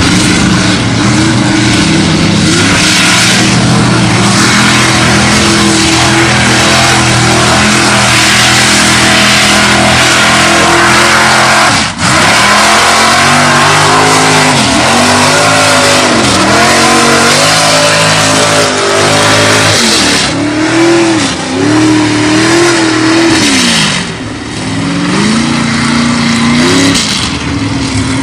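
A Chevy mega mud truck's engine runs loud and hard under load in a mud trench. For about the first twelve seconds it holds high revs. After that it revs up and down repeatedly.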